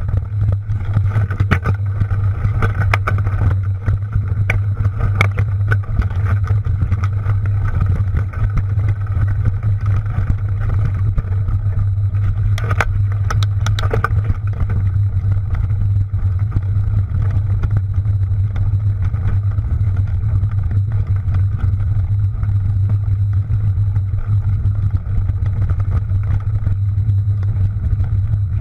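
Mountain bike riding noise picked up by a mounted camera: a steady low rumble with scattered clicks and rattles, busiest in the first half.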